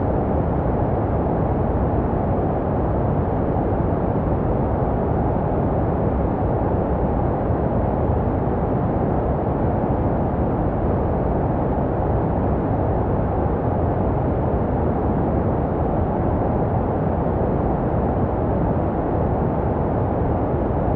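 Steady, unchanging white noise for baby sleep, deep and muffled with little hiss at the top, made to resemble the sounds a baby hears in the womb.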